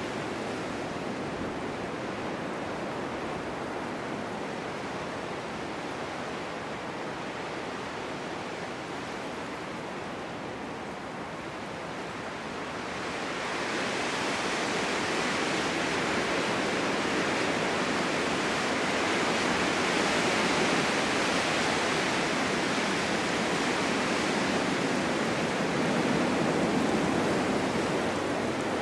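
Snowstorm wind blowing as a steady rushing noise that swells into a louder, hissier gust about halfway through and stays strong.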